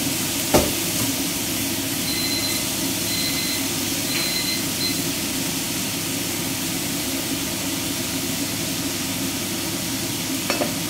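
Bean sprouts, minced beef and carrot stir-frying in a frying pan over a gas flame: a steady sizzling hiss over a constant low rushing noise. A spatula knocks sharply against the pan about half a second in.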